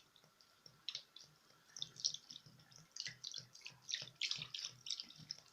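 Faint, irregular splashing and dripping of water as a cleaned duck is moved about in a bowl of soaking liquid.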